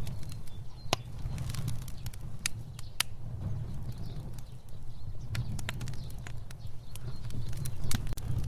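Wood fire burning: a steady low rumble of flames with sharp, irregular crackles and pops. The loudest pops come about a second in, about three seconds in and near the end.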